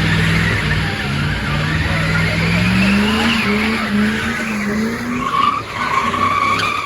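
A car engine held at high revs, its pitch climbing over the first three seconds, while the tyres spin and squeal. A high, steady squeal takes over in the second half.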